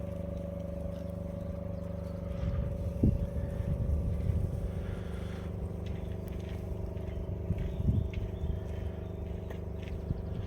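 Vehicle engine running steadily with a constant low hum, swelling into louder rumbles about three seconds in and again near eight seconds.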